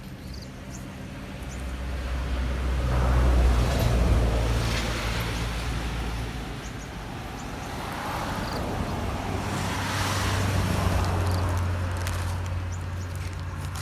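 Road vehicles driving past, two pass-bys: the first swells to its loudest about four seconds in and fades, the second builds to a peak about ten seconds in, each with a low engine hum under the tyre noise.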